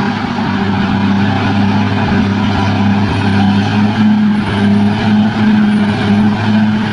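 Bulldozer's diesel engine running steadily under load, a deep drone with rumbling noise over it; from about three seconds in, its note pulses evenly.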